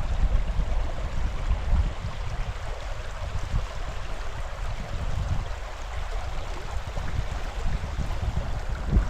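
Mountain stream flowing as a steady rush of water, with wind gusting on the microphone as an uneven low rumble.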